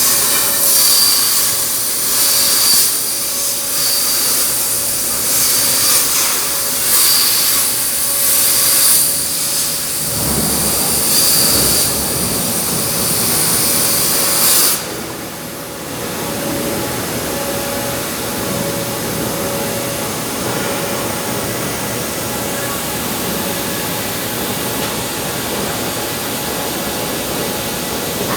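Torch of a CNC steel-plate cutting machine hissing loudly as it cuts, swelling and easing about once a second. A lower rushing noise joins about ten seconds in; about halfway through the high hiss cuts off abruptly and a steady rushing noise carries on.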